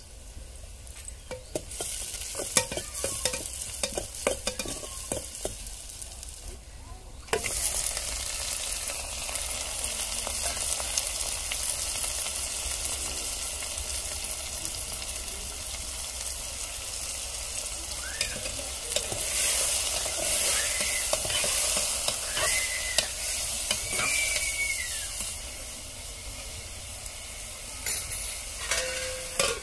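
Onions and then raw chicken pieces sizzling in hot oil in an aluminium pot over a wood fire. The first few seconds carry scattered clicks and crackles over a light sizzle. About seven seconds in, the sizzle jumps suddenly louder as the chicken meets the hot oil, and it stays a steady loud hiss.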